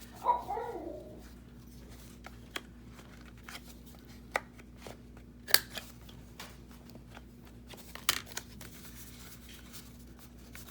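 Paper and card being handled, with a scatter of sharp clicks and snips as a thick card's corner is worked on to round it; the loudest click comes about five and a half seconds in.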